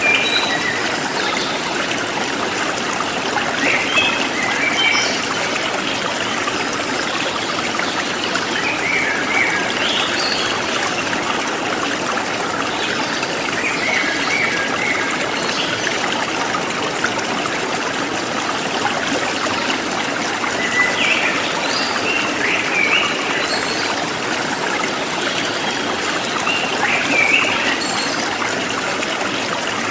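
Forest stream flowing steadily over rocks, with small birds chirping in short calls now and then.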